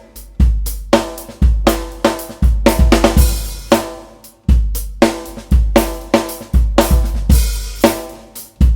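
Drum kit playing a steady groove built on an 18-inch free-floating kick drum, its deep booming strikes ringing out under snare hits and cymbal wash.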